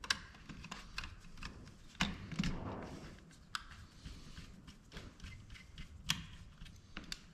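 Irregular small clicks and taps of tools and plastic parts being handled while a dome security camera is taken apart, with a few sharper knocks and a soft rustle a couple of seconds in.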